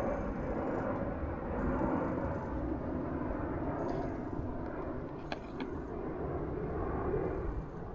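An airplane flying overhead, a steady broad drone with no change in pitch.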